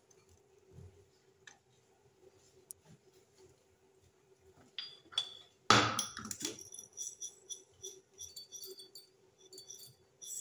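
Kitchen utensils and dishes being handled: a sharp knock about six seconds in, then a run of light metallic clinks, after a few seconds of near-quiet with faint ticks.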